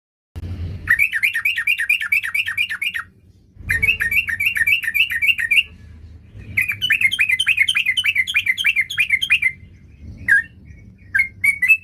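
Yellow-vented bulbul (trucukan) singing in three long runs of quick, repeated chirping notes, about four or five a second, then a few single notes near the end.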